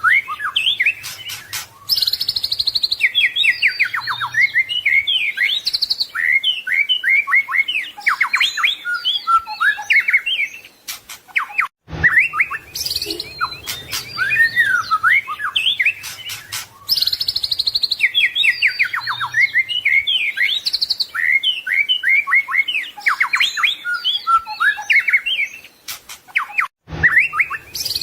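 White-rumped shama (murai batu) singing a fast, varied song of whistles, sweeping notes and rapid trills. The recording loops: the same stretch of song repeats about every fifteen seconds, with a short click and gap at each join, about twelve seconds in and near the end.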